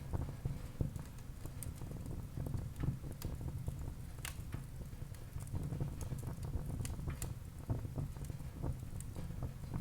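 Wood fire burning in a fireplace: irregular crackles and small pops over a steady low rumble of the flames, with a sharper pop about four seconds in.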